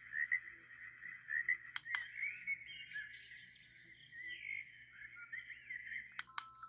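Portable baby noise machine's small speaker playing a nature track of chirping, whistling birds. Plastic button clicks come about two seconds in and again near the end, where the sound changes to chiming lullaby tones.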